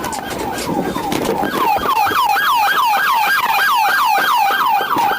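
Police car siren in its fast yelp mode, sweeping up and down about three times a second, over road noise.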